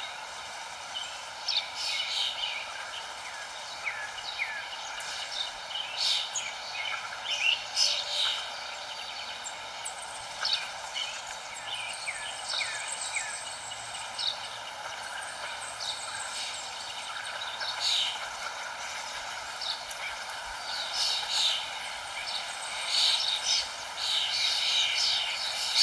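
Several wild birds chirping and calling in quick, overlapping short notes, busiest early on and again near the end, over a steady background hiss.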